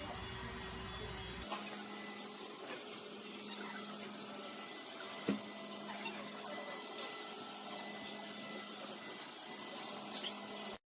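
Robot vacuum cleaner running with a steady whirring hum, taking over after a change in sound about a second and a half in. One sharp click comes about five seconds in, and the sound cuts off abruptly just before the end.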